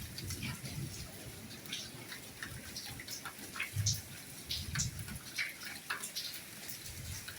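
Soft rain falling, individual drops pattering irregularly over a steady hiss, with a faint low rumble underneath.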